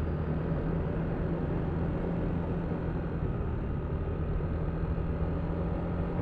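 Yamaha Aerox V3 scooter's 155cc single-cylinder engine running at a steady cruise through its CVT, with wind and road noise on the helmet-mounted microphone.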